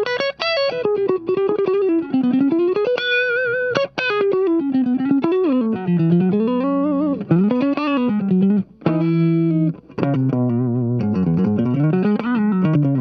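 Electric guitar played clean through a Dolamo compressor pedal with the compression set high: a run of single notes that bend and slide up and down in pitch, with a clean compressed tone and no grit, broken by a few short pauses.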